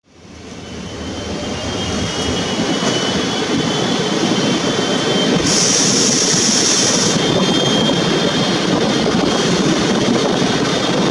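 Steady rumble and rush of a train running, heard from on board, fading in over the first two seconds. A brief high hiss comes about five and a half seconds in.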